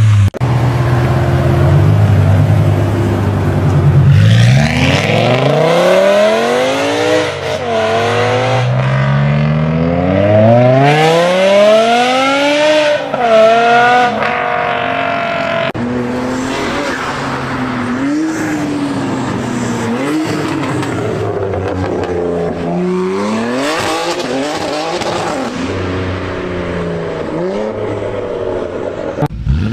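BMW M car engine revving hard: it runs low and steady at first, then its pitch climbs and drops back several times as it pulls through the gears, and it carries on at varying revs.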